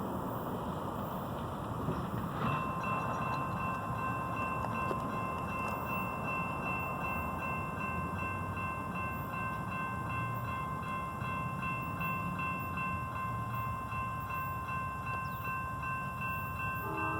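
A railroad warning bell starts ringing about two and a half seconds in and keeps ringing steadily over a low rumble. A train's air horn chord starts right at the end.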